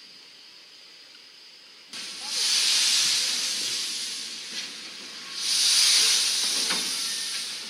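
Two loud hisses of air venting from railway brake equipment. Each starts suddenly and fades over about two seconds, the second coming about three and a half seconds after the first.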